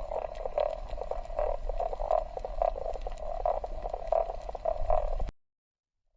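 Frogs croaking over and over, about two calls a second, over a steady low rumble.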